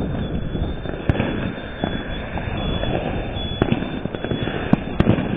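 Fireworks going off in several sharp bangs, the loudest about a second in and two close together near the end, over a steady low rumble of wind on the microphone.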